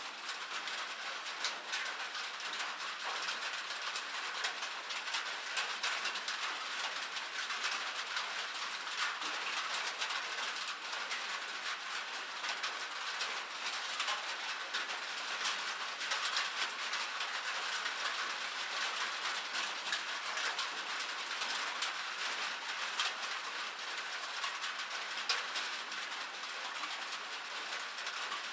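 Rain falling as a steady, dense patter of countless small drop clicks.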